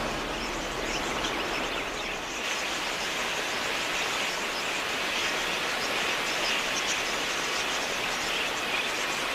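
A large flock of budgerigars chattering: a steady, dense high-pitched twittering of many birds at once.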